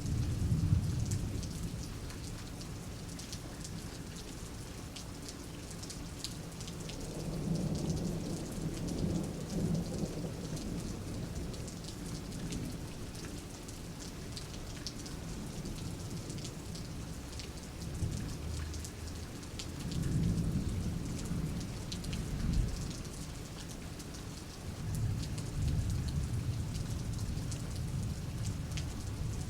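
Steady rain falling and pattering on a surface, with rolling thunder rumbling low several times: a swell about a quarter of the way in, another about two-thirds through, and a longer rumble starting near the end.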